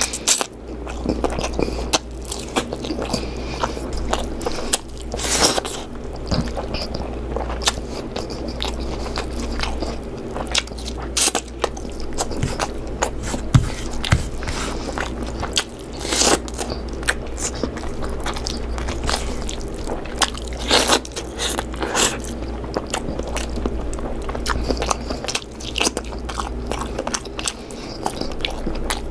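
A person chewing and biting into chicken curry, with wet mouth clicks and smacks spread irregularly throughout and a few longer, noisier bites.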